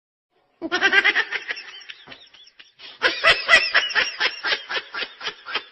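Laughter in quick repeated bursts, starting after about half a second of silence and growing louder about three seconds in.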